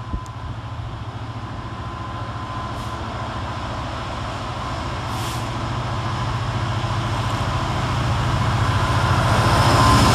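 Class 66 diesel freight locomotive's two-stroke V12 engine running with a steady low beat, growing louder toward the end as it works a freight train.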